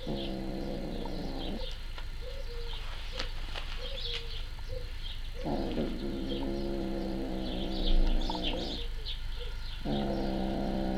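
Animal calls: three long, low, drawn-out cries, one at the start, one in the middle and one near the end, with short high bird chirps scattered throughout.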